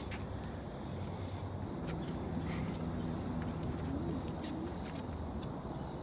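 Insects, likely crickets, trilling steadily as one continuous high-pitched note, with a few faint clicks.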